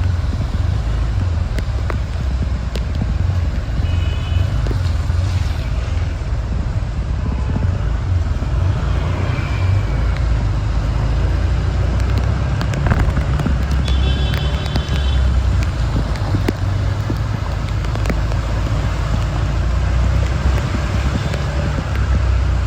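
Road traffic noise with a heavy low rumble. A short, high, multi-toned beep sounds about four seconds in and again about fourteen seconds in.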